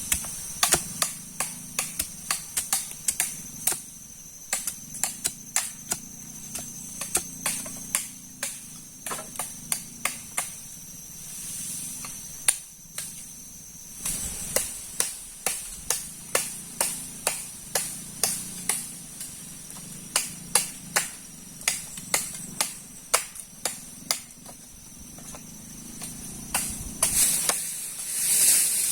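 Repeated sharp knocks or taps, a few a second in uneven runs with short pauses, over a steady high-pitched hum.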